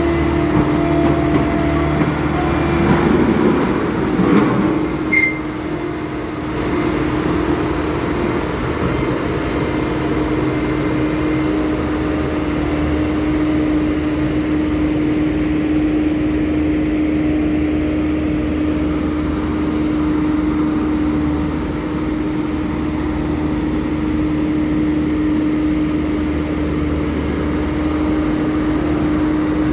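Heavy diesel engine running steadily at a constant speed, with a brief burst of extra noise a few seconds in.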